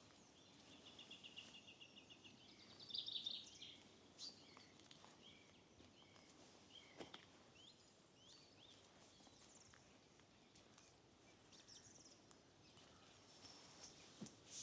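Faint songbirds singing: a fast, even trill early on, a louder burst of chirping about three seconds in, then scattered short chirps, over a faint steady background hiss.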